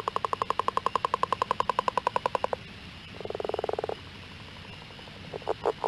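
Frogs calling: a long, even train of rapid pulsed croaks at about a dozen pulses a second that stops about two and a half seconds in, then a shorter, lower, faster trill, and a few short separate calls near the end.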